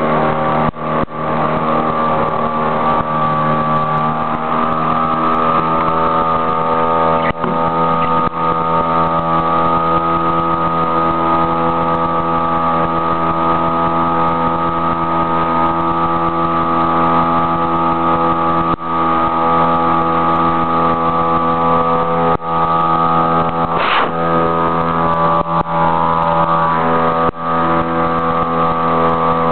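Small outboard motor driving a canoe at a steady, constant speed, its note holding level, with a few brief dips and a short burst of noise about 24 seconds in.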